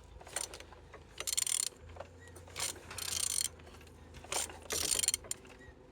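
Opel Z18XER 1.8-litre four-cylinder engine being turned over by hand with a tool on the crankshaft, in four short rasping strokes. It turns freely: the engine is not seized.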